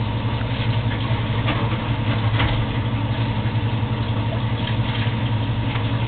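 Steady low hum of a running machine with a noisy hiss over it, unchanging throughout.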